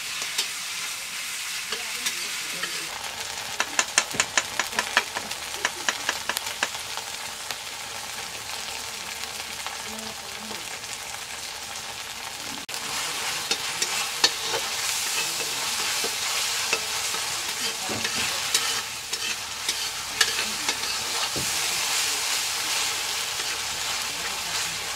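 Spice paste sizzling in hot oil in a metal karahi (wok), stirred with a metal ladle. A few seconds in, the ladle knocks against the pan in a quick run of clicks, about four or five a second. About halfway through, the sizzling gets louder and stays up.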